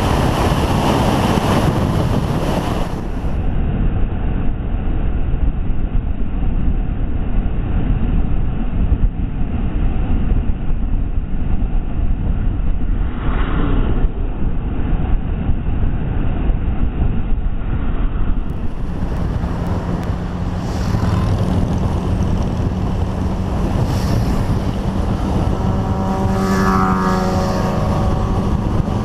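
Motorcycle riding at speed: a steady rumble of wind on the microphone mixed with engine noise. From about 20 seconds in a steady engine note stands out, and near the end it rises briefly as the engine is revved up.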